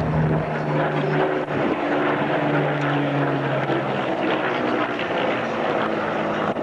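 Supermarine Spitfire's Rolls-Royce Merlin V12 engine running as the fighter flies its display, a steady propeller drone whose pitch shifts slightly a couple of times.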